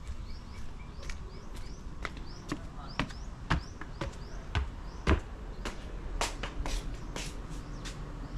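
Footsteps at a steady walking pace, about two steps a second, with a few louder knocks around the middle, while birds chirp in the background.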